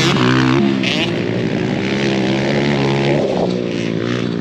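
Small four-wheeler (youth ATV) engines running hard on a dirt race track, a steady engine note that shifts pitch about three seconds in.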